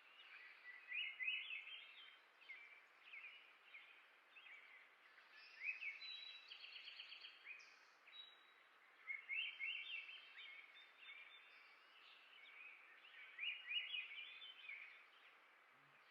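House finch singing: several bursts of quick, high warbled notes over a faint steady hiss.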